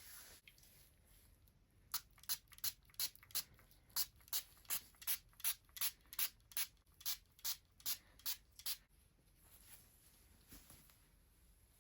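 Hands rubbing the skin of a person's feet in quick, even strokes, about three a second, which stop a few seconds before the end.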